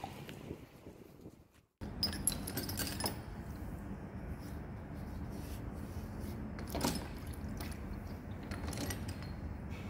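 Small metal tools clinking and scraping as they are handled, with several sharp clicks over a steady low hum. The sound drops briefly to silence just before two seconds in.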